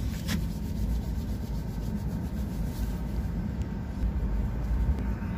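Passenger train running along the track, heard from inside the coach: a steady low rumble.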